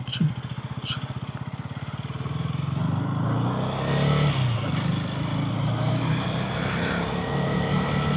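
KTM Duke 250's single-cylinder engine ticking over with an even pulse, with a couple of short clicks near the start. About three seconds in it picks up revs and runs steadily louder as the bike pulls away, heard through a mic inside the rider's helmet.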